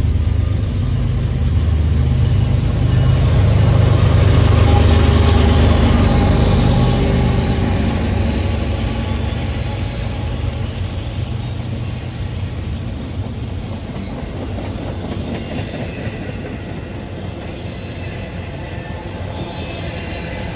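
A train passing close by: a loud low rumble swells over the first few seconds, peaks about five seconds in, then slowly fades as the cars roll past.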